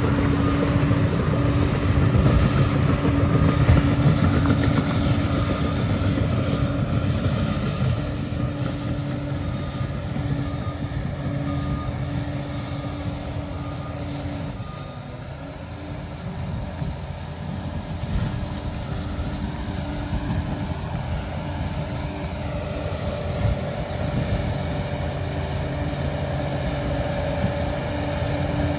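Liebherr PR 746 crawler dozer running, its diesel engine holding a steady drone with a whine over it. The sound eases off about halfway, then builds again, with a higher whine coming in near the end.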